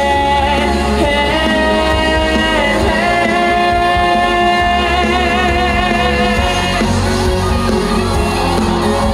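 Live pop song over amplified band backing, with a male voice holding long sung notes with a wide vibrato.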